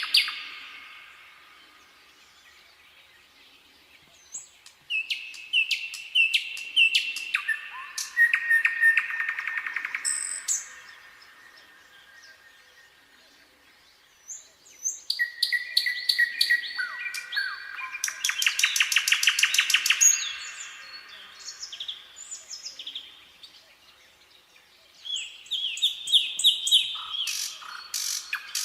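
Nightingale singing in separate phrases a few seconds apart, each built of repeated whistled notes and fast rattling trills.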